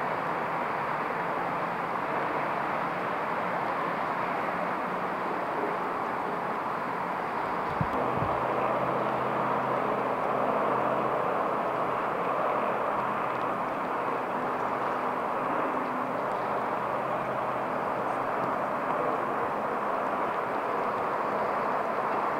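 Steady hiss of light rain on the wet street, with the low hum of idling vehicles underneath and a single knock about eight seconds in.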